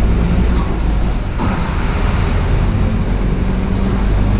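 Mercedes-Benz OF-1721 BlueTec 5 city bus on the move, heard from inside the cabin: a steady diesel engine drone with road noise, and a short change in the sound about a second and a half in.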